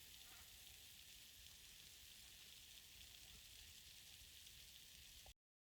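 Near silence: a faint steady hiss that cuts off to total silence near the end.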